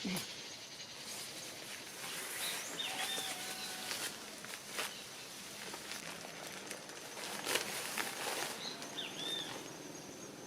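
Outdoor ambience: a steady hiss with a short bird call twice, about three seconds in and again near the end, and a few soft knocks or rustles.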